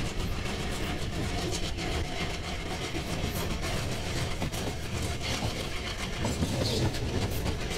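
Indian passenger train running at speed, heard from an open coach doorway: steady wheel-on-rail rumble with rhythmic clatter over rail joints, and the hum of the ALCO-engined WDM3A diesel locomotive working at the head of the train.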